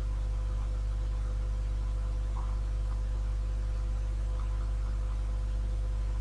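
A steady low hum, unchanging throughout, with a few faint ticks.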